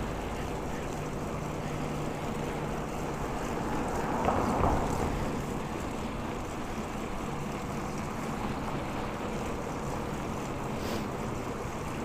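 Riding noise on a moving bicycle: wind on the clip-on microphone mixed with tyres rolling on the road, a steady rush that swells briefly about four seconds in.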